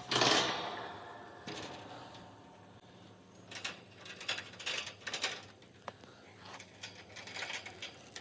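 A sudden knock that fades over about a second, then a series of scattered light clicks and clinks.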